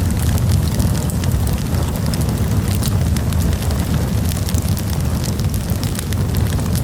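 Wood fire burning in a campfire: frequent small crackles and pops over a steady low rumble.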